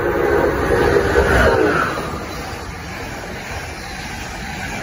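Amtrak passenger train with an ACS-64 electric locomotive passing through the station at speed. It is loudest as the locomotive goes by in the first two seconds, with a pitched tone that drops in pitch, then settles into the steady rush of the passing cars.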